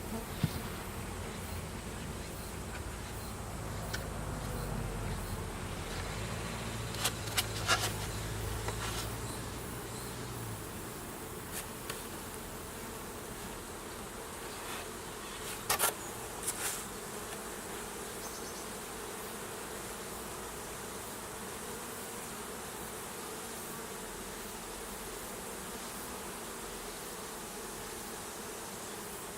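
A swarm of honeybees buzzing steadily, with a few sharp clicks or knocks about seven seconds in and again around sixteen seconds.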